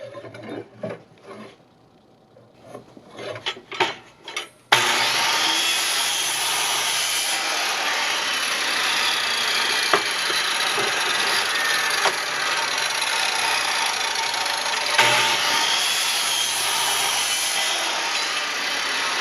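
A few light knocks of wooden boards being handled, then, about a third of the way in, a power woodworking tool starts suddenly and runs steadily and loudly on scrap lumber for the rest of the time, with a thin high whine and an occasional click.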